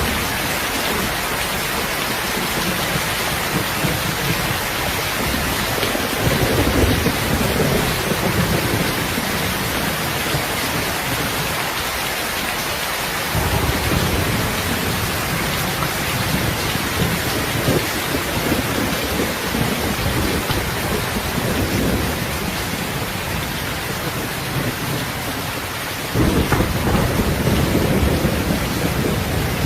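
Steady rain hiss with rolling thunder rumbling underneath. One long rumble swells from about six seconds in, and another comes in suddenly near the end.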